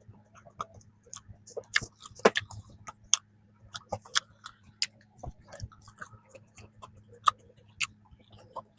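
Close-up chewing and biting of a flaky strawberry danish, its crisp pastry layers crackling in many irregular sharp crunches over a faint low hum.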